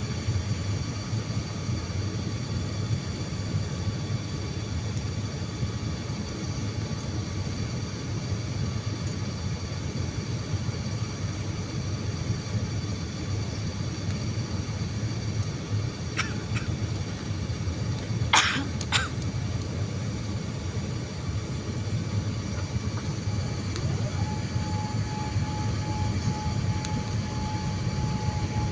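Steady rumble of an airliner's engines and airflow heard inside the cabin during the landing approach, with a steady high whine over it. A few sharp clicks come about two-thirds of the way through, the loudest a double click.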